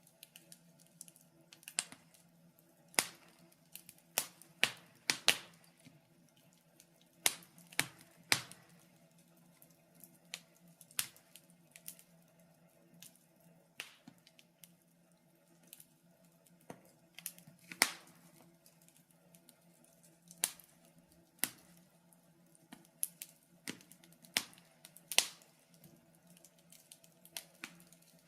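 Wood fire in a fireplace crackling: irregular sharp pops and snaps, roughly one every second or two, some much louder than others, over a faint steady low hum.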